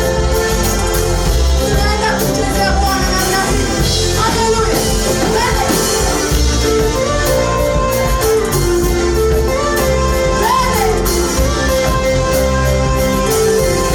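Church praise band playing live with keyboard, bass and drums, with singing voices gliding over sustained chords.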